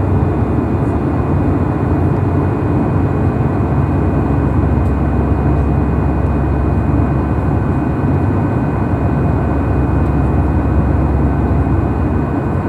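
Steady loud cabin noise inside an Airbus A319 jet: a constant low rumble with a few faint steady whining tones above it.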